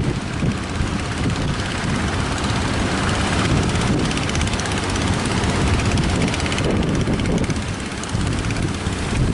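Strong wind buffeting the microphone over a continuous rumbling drone, with gusts rising and falling.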